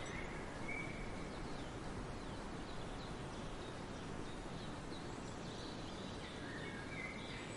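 Outdoor nature ambience: a steady noisy background with faint, scattered bird calls and chirps.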